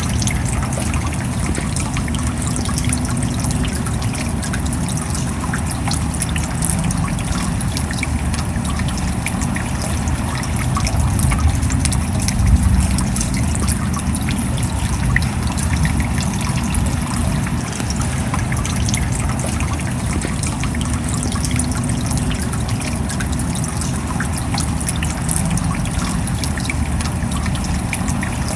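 Steady rain: a continuous wash of falling water with many small drop ticks and a low rumble underneath.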